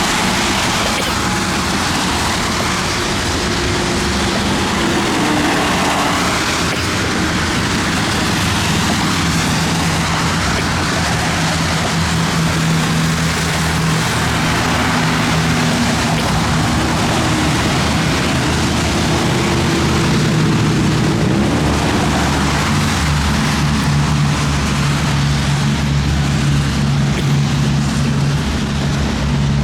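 Steady motor-vehicle noise: a low engine hum with a few sliding tones over a constant rushing noise.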